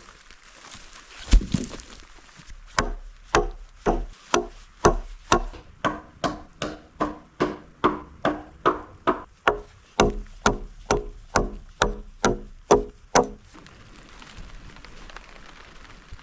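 A hand tool striking wood in a fast, even rhythm of about two and a half blows a second, each with a short ring, for roughly ten seconds. It follows a single heavier thump about a second in.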